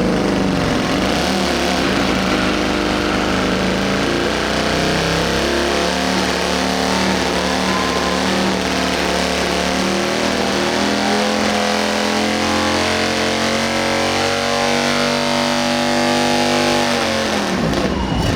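Motorcycle engine running hard at high revs. Its note wavers for the first few seconds, then holds steady and creeps slightly higher, and drops away sharply near the end.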